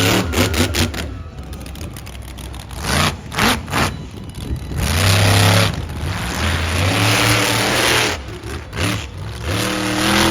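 The Scorpion monster truck's engine, revved hard in repeated bursts, its pitch climbing and dropping with each blip. Sharp crackles and pops come between the revs.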